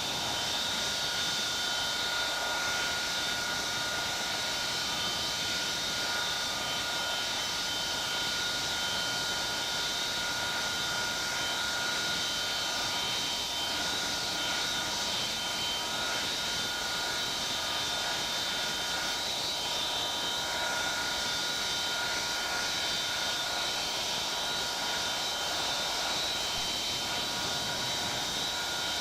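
Avro Vulcan B2's Bristol Olympus turbojet engines running steadily on the ground: a constant rushing roar with several high steady whines on top.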